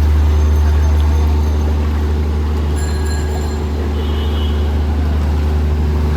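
A heavy engine running steadily close by, a deep, even hum that eases off slightly a little over a second in.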